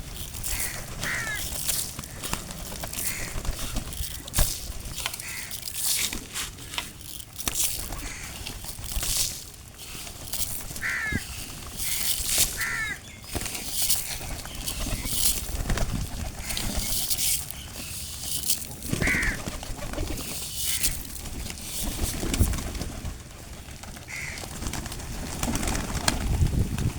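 A flock of birds at a feeding spot: pigeons cooing, with short bird calls every few seconds over frequent brief sharp noises.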